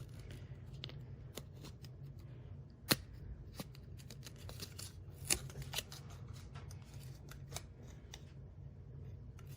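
Hands handling small parts of a plastic hard-drive enclosure: scattered light clicks, taps and rustles, with a sharper click about three seconds in and another a little after five seconds, over a low steady hum.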